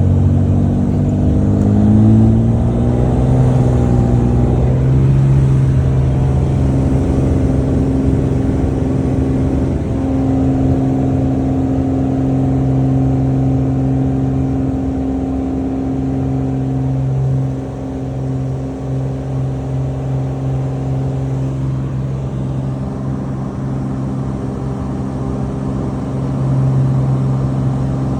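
Single-engine light aircraft's piston engine being throttled up, its pitch rising over the first few seconds, then running steadily at high power.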